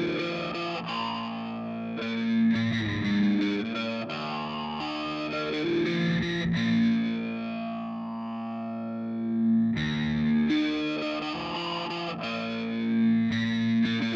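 Instrumental music: distorted, effects-laden electric guitar playing sustained notes over a four-string electric bass, thinning out briefly just past the middle.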